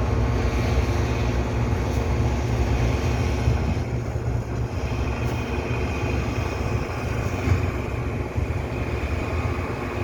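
Heavy truck's engine running steadily, the sound low and even.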